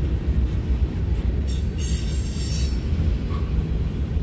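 Empty covered hopper cars of a unit train rolling past with a steady low rumble of wheels on rail, and a high-pitched wheel squeal for about a second near the middle.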